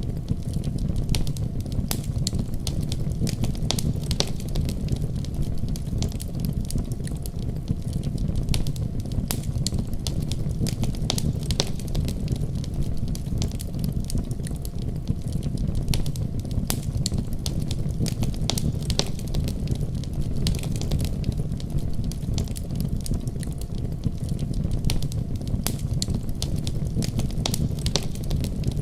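Wood fire crackling, with frequent sharp irregular pops, over a steady deep rumble of snowstorm wind.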